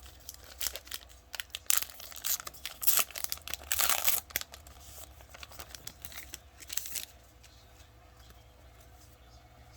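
Baseball card pack being torn open by hand: the wrapper crinkles and crackles in quick bursts, with the loudest, longest tear about four seconds in, and the crinkling stops about seven seconds in.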